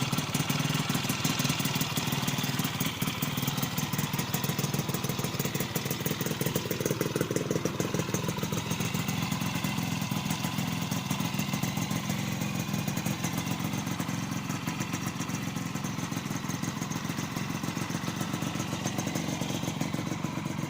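1980 Honda M100 motorcycle engine idling steadily with a fast, even exhaust beat, settling a little quieter partway through.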